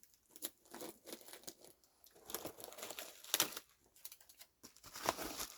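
Plastic snack packaging crinkling in irregular crackles as it is handled, with a louder crackle about three and a half seconds in and another near five seconds.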